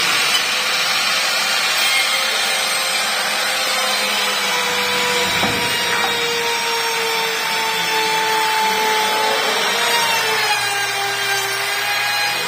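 Electric router cutting a groove in wood: a steady high motor whine with the noise of the cut, the pitch dropping slightly under load near the end.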